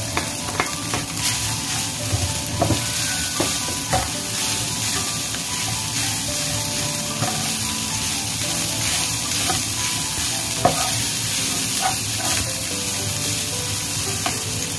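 Rice frying in a hot stone-coated nonstick frying pan: a steady sizzle, with the scrape and knock of a wooden spatula stirring and turning it now and then.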